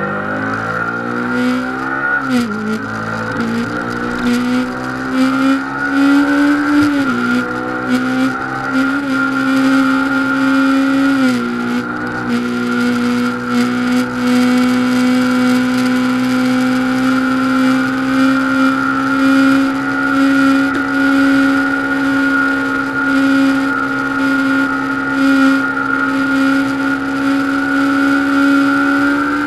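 Honda CBR500R's 471 cc parallel-twin engine accelerating hard through the gears on a top-speed run, with upshifts about 2, 7 and 11 seconds in. It then holds high revs almost steadily near top speed.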